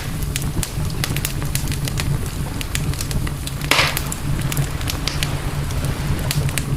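Wood campfire crackling, with frequent sharp snaps and pops and one louder hissing burst a little past the middle, over a steady low rumble.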